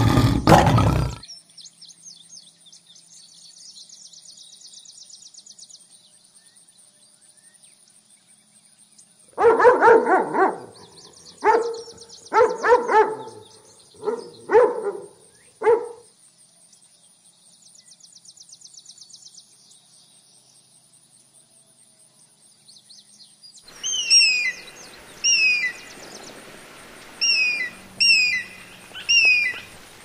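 A lion's roar dies away in the first second. Then a dog barks in a run of about seven sharp barks in the middle. Near the end an eagle calls in repeated short, falling whistles.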